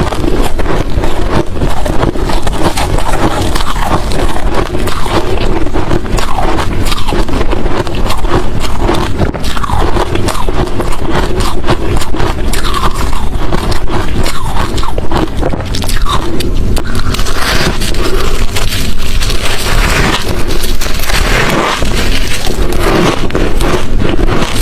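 A person chewing hard crushed ice and chunks of shaved ice close to the microphone: loud, continuous crunching and cracking without a pause.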